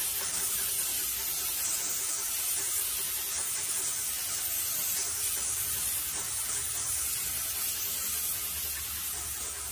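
Paint being sprayed onto a garage door: a steady, continuous hiss with no breaks, over a faint low hum.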